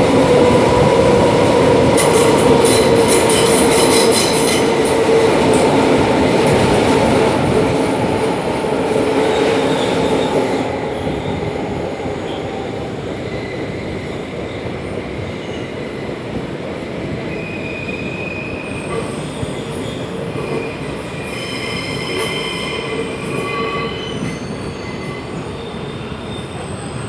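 DB Class 472 S-Bahn electric train heard from inside the car, running with its wheels squealing on the rails. It is loudest in the first ten seconds, with the sharpest squeal a few seconds in, then runs quieter with short high squeal tones near the end.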